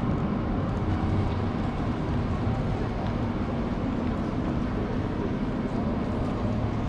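Steady rumble and hum of a train, even in level with no sudden sounds.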